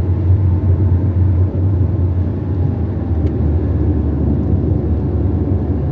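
Car driving along the road: a steady low rumble of engine and tyre noise, with a faint whine that slowly drops in pitch.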